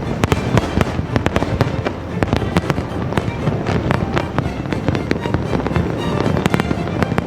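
Aerial fireworks bursting in rapid, overlapping succession: a dense crackle of many sharp bangs over a continuous low rumble, with music underneath.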